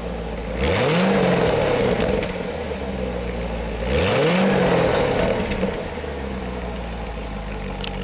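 2008 Chevrolet Corvette's 6.2-litre LS3 V8 idling, blipped twice about three seconds apart, each rev rising and dropping back to idle.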